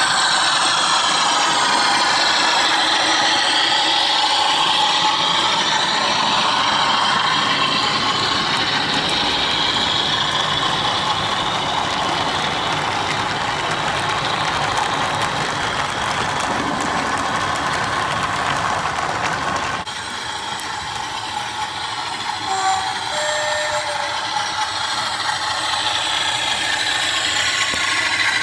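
Model Bachmann Class 47 locomotive's DCC sound decoder playing recorded diesel engine sound through a small speaker as the model runs. The sound gets a little quieter about two-thirds of the way through.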